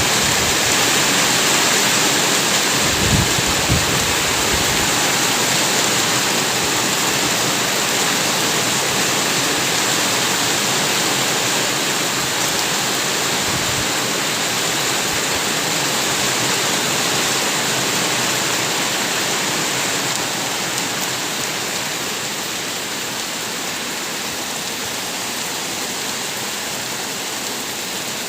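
Heavy rain pouring down in a steady, even hiss that eases slightly in the second half, with a few brief low thuds a few seconds in.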